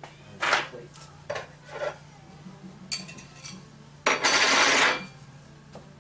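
Metal parts clinking and clattering as flywheel bolts and tools are handled, followed about four seconds in by one loud, harsh, noisy burst lasting about a second.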